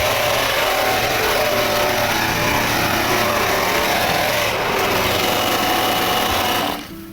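Small petrol-engine power tool running steadily at high speed, cutting off abruptly near the end.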